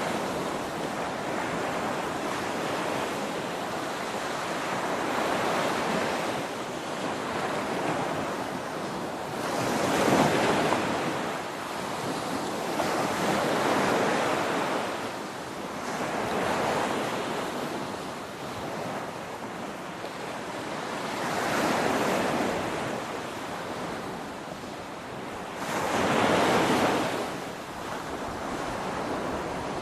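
Ocean surf: a continuous rushing wash of breaking waves that swells and ebbs, with louder surges every few seconds as waves crash. The biggest surges come about a third of the way in and near the end.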